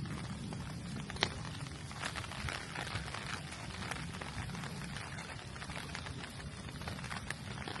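Steady rain falling, with many close drops ticking irregularly and one sharper drop tick about a second in.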